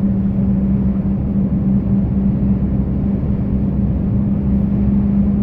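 Truck running steadily: an even engine and road drone with a constant low hum.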